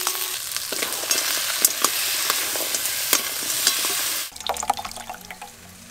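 Fried crab pieces dropped into hot spiced oil in a wok, sizzling loudly, with a metal spatula scraping and clicking against the pan as they are stirred. About four seconds in the sizzle drops to a much quieter hiss.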